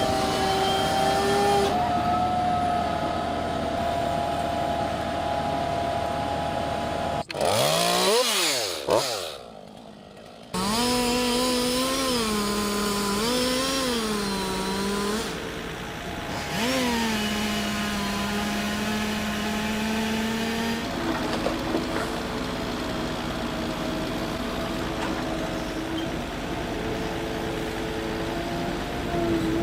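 Chainsaw engine running and revving up and down several times, with an abrupt break about seven seconds in and a falling pitch sweep before it picks up again.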